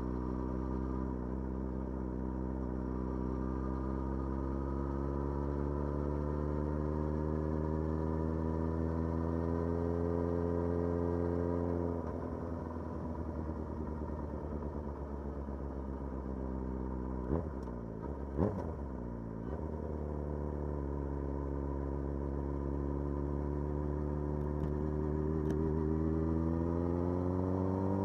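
Motorcycle engine pulling in one gear, its pitch slowly rising for about twelve seconds before the throttle is closed and the revs drop. Two short sharp sounds come midway, then the engine settles and climbs again in pitch near the end.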